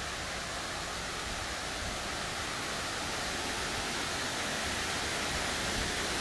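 Small waterfall splashing steadily: a constant, even rush of falling water.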